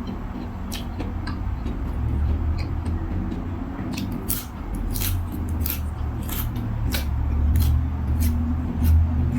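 Close-up chewing and crunching while eating, with sharp crackles coming several times a second in the second half over a low rumble.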